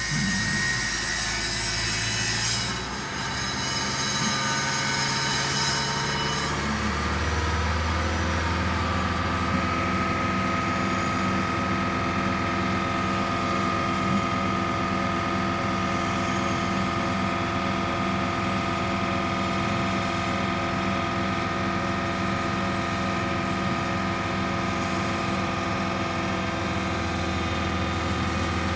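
Honda Civic Hybrid's 1.3-litre four-cylinder engine held at a fast idle of about 2500 rpm to warm it from cold toward closed loop, heard inside the cabin. Its sound shifts about seven seconds in, then holds as a steady hum.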